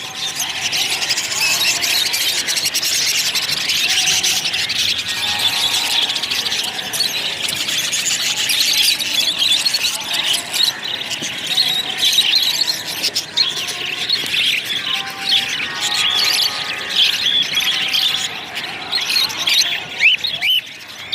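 Many caged birds chattering and squealing together: a dense, continuous chorus of overlapping high-pitched calls.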